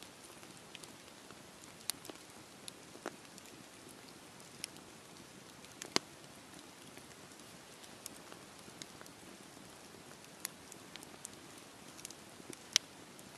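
Wood fire burning with a low steady hiss and scattered sharp crackles and pops, the loudest about six seconds in and again near the end.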